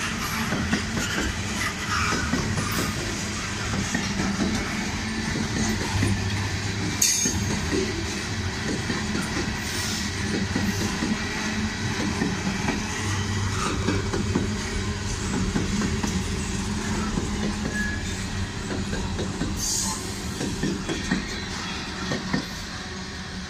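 CSX freight train of hopper cars rolling past, with a steady rumble and the clickety-clack of wheels over the rail joints. A few sharp clanks stand out, and the sound tapers off near the end as the last car goes by.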